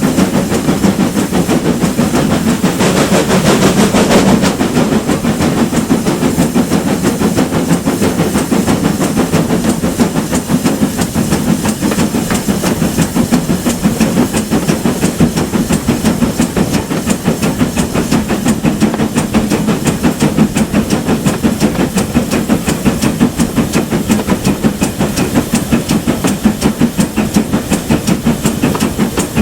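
GWR Manor-class steam locomotive working, its exhaust beating in a fast, even rhythm with steam hissing. A louder burst of hiss comes about three to four seconds in.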